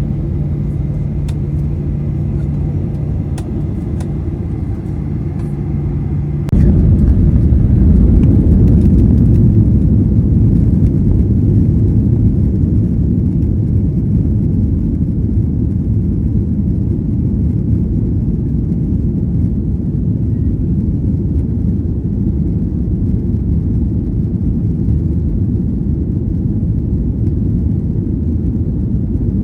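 Jet airliner engines and cabin rumble. A steady hum runs for about six seconds, then the low rumble suddenly grows louder and holds steady, as when the engines are brought up to power.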